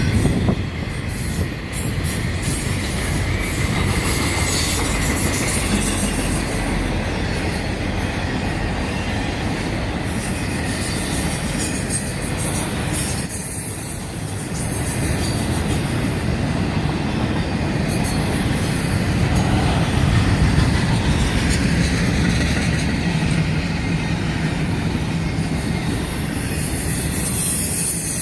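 CSX intermodal freight train rolling past, its cars running on the rails with steady, continuous noise.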